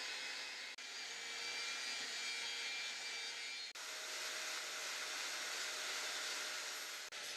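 A steady hissing workshop noise, broken three times by sudden brief dropouts where the footage is cut.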